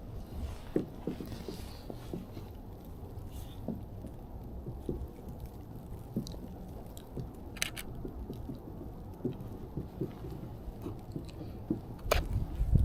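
Footsteps crunching in snow, irregular and light, over a low rumble; near the end a louder low rumble comes in.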